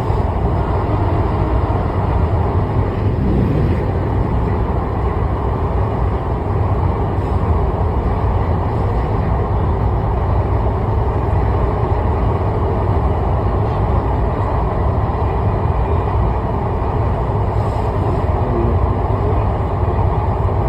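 Steady low rumble of a vehicle in motion, running at an even speed with no distinct knocks or changes.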